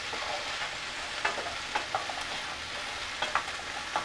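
Chopped onion and garlic sizzling in olive oil in a nonstick skillet, while a wooden spoon stirs them, knocking and scraping against the pan in a few short clicks.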